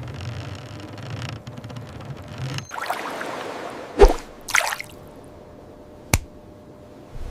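Dripping and splashing water sound effects. A low rumble fades out in the first few seconds, and the loudest event is a single sharp knock about four seconds in, followed by a short splash and a click near the end.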